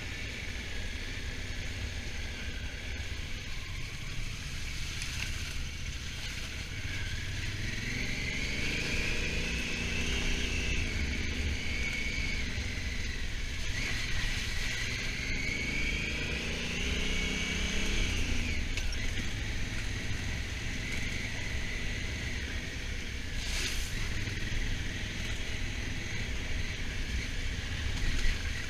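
Honda Africa Twin motorcycle engine under way over a steady rush of wind on the microphone. It pulls up in pitch twice, at about a third and again at about half way through, as the bike accelerates.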